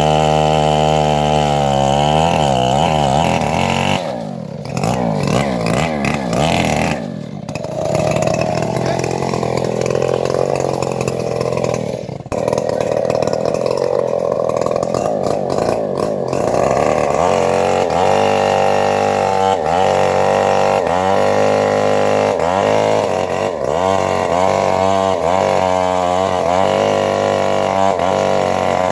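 Engine-driven bandsaw mill running under load as it saws an old teak log. The engine pitch sags and recovers repeatedly; it drops sharply a few times in the first half, then dips every second or two in the second half.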